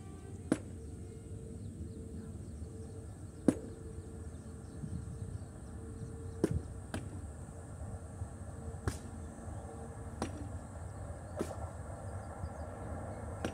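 Faint low rumble of a distant train approaching along the track, heard from rail level, slowly getting louder over the last few seconds. Sharp clicks sound every one to three seconds.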